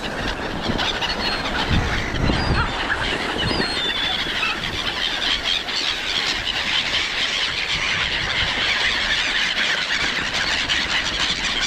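A large flock of gulls calling over food, many high squealing calls overlapping in a continuous clamour.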